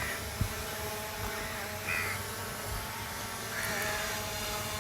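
A bird giving a few short calls about two seconds apart, over the steady hum of the SJRC F11S quadcopter drone hovering overhead as it tracks its pilot.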